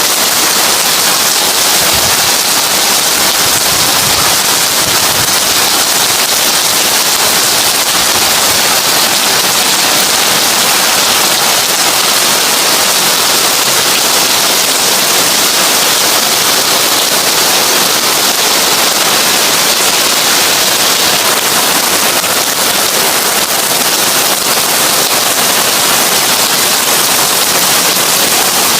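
Heavy rain drumming steadily on a tin roof, a dense, even patter of countless drops.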